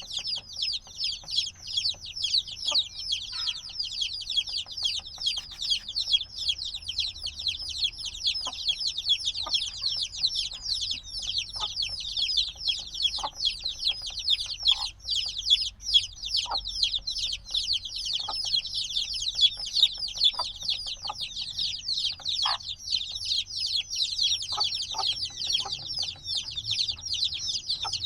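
A brood of newly hatched chicks peeping constantly, many overlapping short high chirps that sweep downward in pitch, with a few faint clicks underneath.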